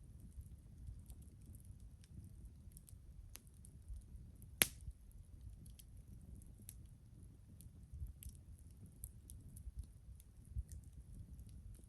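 Campfire crackling: burning wood giving off irregular small snaps and pops, with one louder pop about four and a half seconds in.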